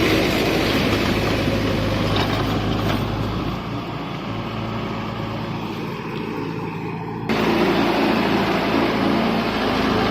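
Mahindra Yuvo Tech 575 DI tractor's diesel engine running steadily. It turns duller and quieter about three and a half seconds in, then abruptly louder again about seven seconds in.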